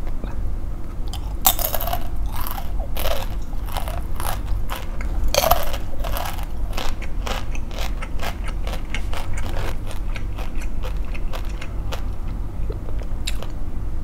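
A crunchy snack being bitten and chewed: a few loud, crisp bites in the first six seconds, then steady, rapid smaller crunches of chewing.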